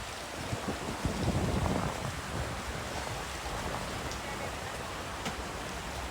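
Steady rushing of snowstorm wind, with low rumbling gusts buffeting the microphone about one to two seconds in.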